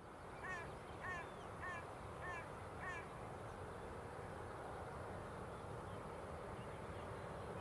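A bird calls five times in quick succession, short arched calls about 0.6 s apart, over a faint low steady rumble.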